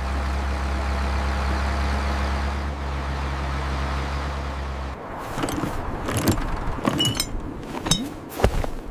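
A motor runs with a steady hum and stops suddenly about five seconds in. A quick string of clicks, knocks and short whooshes follows.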